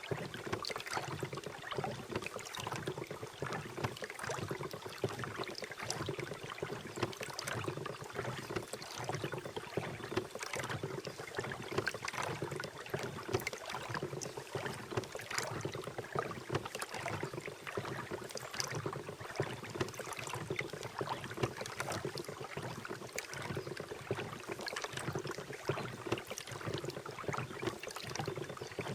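A small boat under way on a lake: a steady wash of water splashing and rippling against the hull, with dense small splashes throughout.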